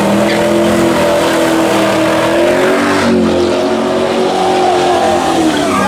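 A vehicle engine revved up and held at high revs, its pitch steady with a slight rise midway, then starting to drop near the end.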